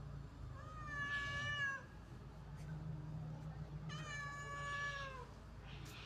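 Domestic cat meowing twice: two long, drawn-out meows about two seconds apart, each dropping in pitch at its end.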